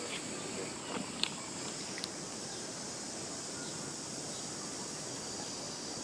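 Steady high insect chirring in the background, with a few short, sharp sounds about a second in and one more at about two seconds.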